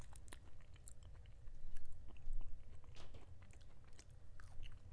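A person chewing and biting food close to the microphone: irregular wet mouth clicks and small crunches.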